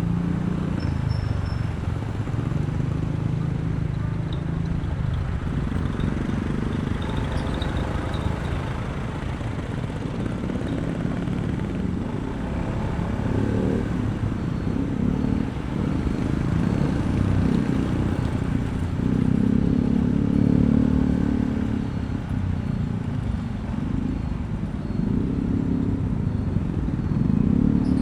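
Honda ADV160 scooter's single-cylinder engine running under way, its pitch rising and falling with the throttle, with a rise about two-thirds of the way through and another at the end, over steady road noise.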